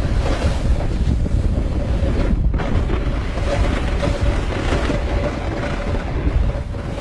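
Wind buffeting the microphone over water sounds around a kayak, a loud steady rumble with splashing hiss. A faint steady hum comes in about halfway through.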